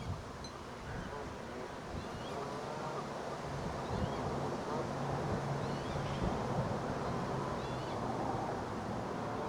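Outdoor ambience of wind buffeting the microphone, with a few faint, short bird calls scattered through it.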